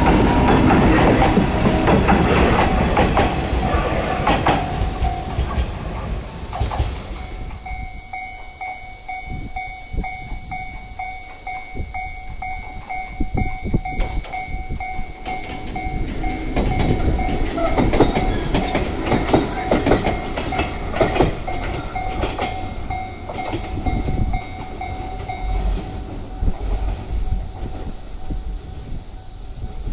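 Echizen Railway electric train running past on the track, its wheels clacking over rail joints, loudest in the first few seconds and then fading. A steady whine follows, and more wheel clicks come and go about halfway through.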